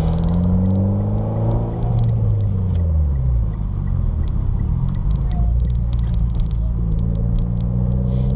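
Mitsubishi Lancer Evolution X's turbocharged 2.0-litre four-cylinder engine, fitted with an ETS turbo-back exhaust, running with a low drone. Its pitch falls about two to three seconds in as the revs drop, then holds steady.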